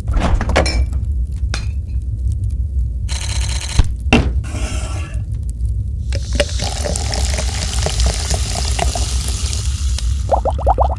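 A string of added stop-motion sound effects over a steady low hum: a few sharp clicks and knocks, a short buzzing rattle about three seconds in, then a long hiss like pouring liquid from about six seconds in until shortly before the end, and a few quick rising tones at the end.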